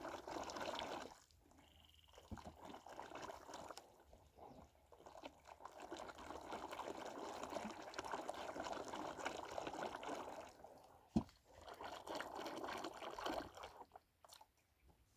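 Liquid being poured or sloshed in several stretches, the longest lasting about eight seconds, with a single sharp knock about eleven seconds in.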